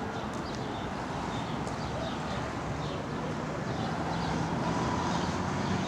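Steady outdoor background of distant road traffic, with a vehicle's engine hum growing louder in the second half.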